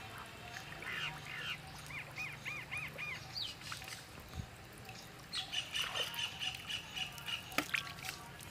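Birds calling: a quick run of short, high, arching chirps, then a longer high trill with rapid clicks in the second half.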